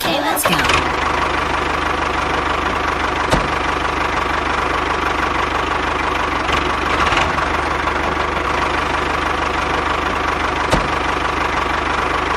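A small motor running steadily at a constant speed, starting abruptly, with two sharp clicks, one about three seconds in and one near the end.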